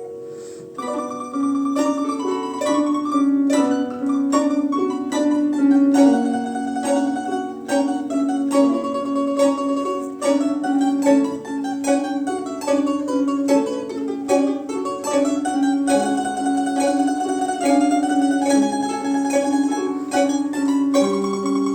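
A quartet of domras playing a piece together, with held notes under quick plucked runs. The playing starts up again after a brief lull at the very start.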